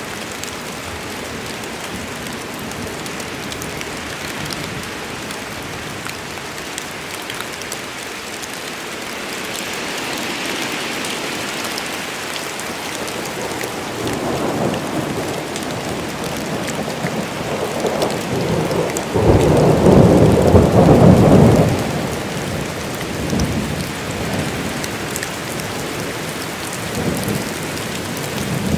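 Steady rain falling in a forest, with thunder rolling in from about halfway through; the loudest rumble peaks for a few seconds past the middle, then fades to smaller rumbles near the end.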